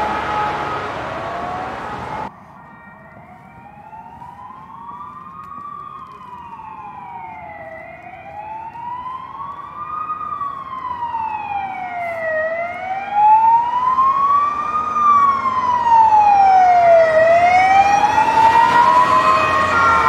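Ambulance siren. A loud siren passage cuts off abruptly about two seconds in, and a slow wail follows, its pitch sweeping up and down about every five seconds. The wail grows steadily louder as the ambulance approaches.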